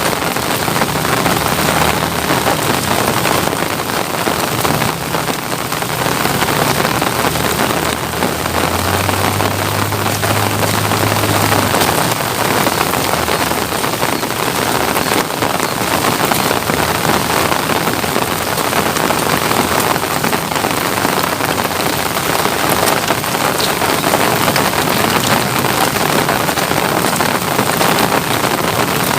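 Steady rain falling, an even hiss of drops throughout. A faint low hum comes in briefly from about nine to twelve seconds in.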